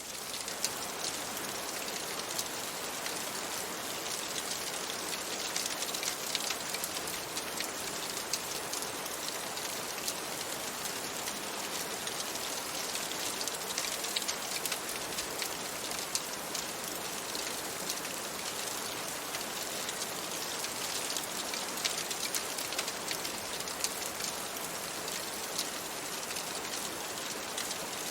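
Steady rain on window glass, a dense even patter of fine raindrop ticks.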